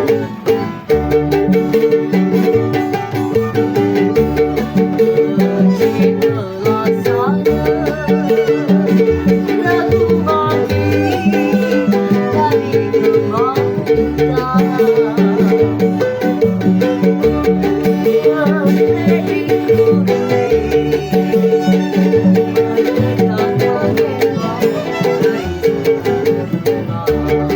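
A band playing a Balinese pop song, with a steady, repeating plucked rhythm under a melody that slides between notes.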